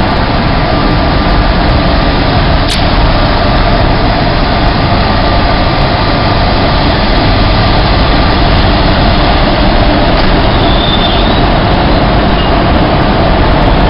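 Indian Railways electric train running on the track: a loud, steady rumble with one sharp click a little under three seconds in.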